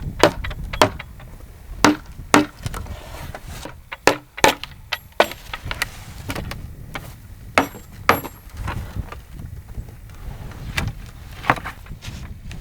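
Irregular knocks, cracks and snaps of wood being handled and broken, a dozen or so sharp strikes of varying loudness over a low rumble.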